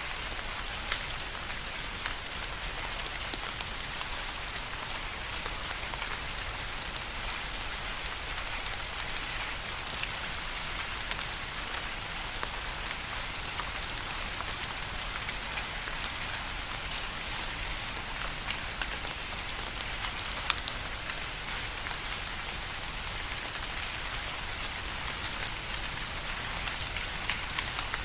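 Steady rainfall with many individual drops ticking and pattering on a surface, an even hiss with scattered sharper drop hits.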